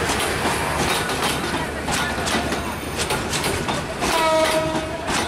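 Passenger coaches rolling past close by, the wheels clattering over rail joints in a steady clickety-clack. Near the end a pitched tone is held for about a second.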